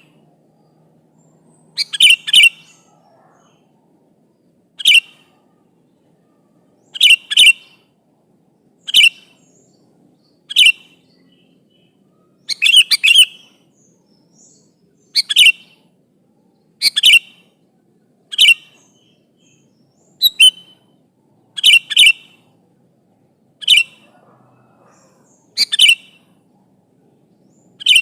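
Sooty-headed bulbul (kutilang) calling: short, loud, clear calls repeated every one to two seconds, several of them given as quick doubled notes.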